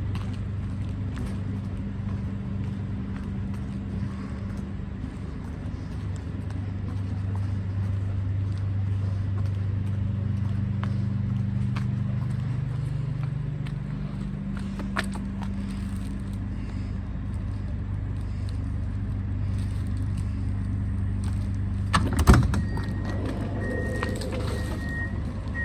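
Electric trains standing at a station platform, giving a steady low electrical hum; partway through, one of the hum's tones rises slowly in pitch. About 22 seconds in there is a single loud clunk, and then short high beeps repeat about every 0.7 seconds.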